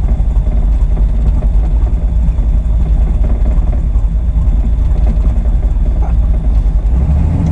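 Car engine running steadily at low revs, a constant low drone.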